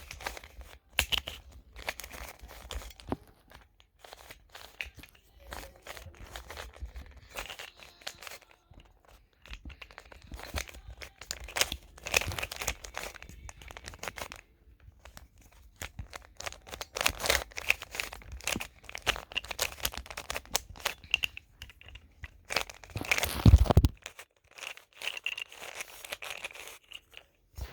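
Plastic puzzle cube being turned fast during a solve: rapid clicking and clacking of the layers, in spurts with short pauses. A loud thump a few seconds before the end.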